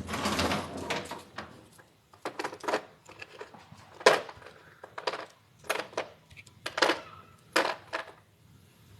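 Metal tools being handled: a short scraping rattle, then a series of separate sharp metallic clinks and knocks, roughly one a second.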